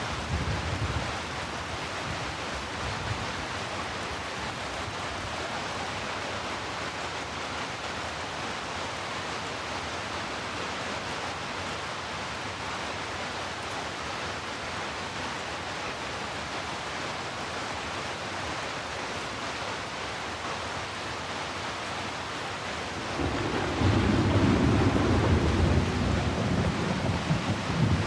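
Heavy rain falling in a steady, even hiss. About twenty-three seconds in, a louder, low rolling rumble rises under it and carries on.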